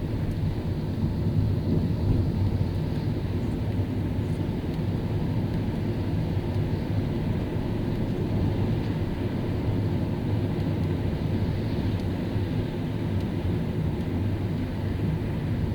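Car driving on a rain-wet city road: a steady low rumble of tyres and engine with no change in pace.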